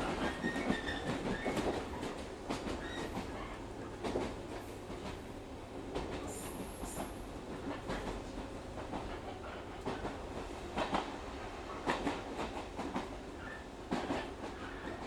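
Inside a local train running on the rail: a steady rumble with the wheels clacking over rail joints at uneven intervals, and a brief high squeal about six seconds in.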